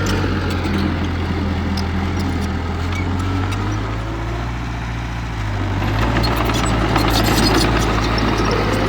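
Diesel engine of heavy earthmoving machinery running steadily, growing louder about six seconds in, with scattered light clanks.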